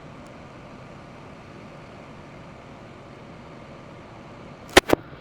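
Steady machine hum, like a fan, with two sharp clicks in quick succession near the end and another right at the end.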